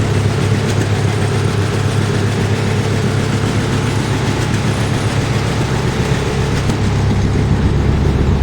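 1950 Farmall MD tractor's four-cylinder diesel engine idling steadily after a cold start, with a strong low hum that deepens slightly near the end.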